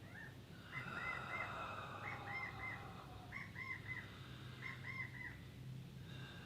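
A bird chirping: a short phrase of two or three quick notes, repeated four times about every 1.3 seconds, over a low steady hum.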